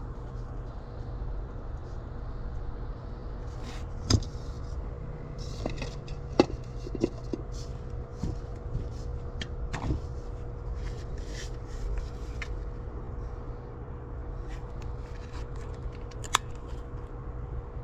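Small objects being handled: scattered sharp clicks and light knocks, the loudest about four seconds in, once more about six seconds in and again near the end, over a steady low rumble and a faint steady hum.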